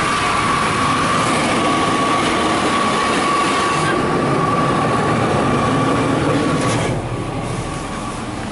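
Loud car wash bay buzzer sounding continuously for about seven seconds, heard from inside a vehicle. It is a steady harsh tone that cuts off near the end.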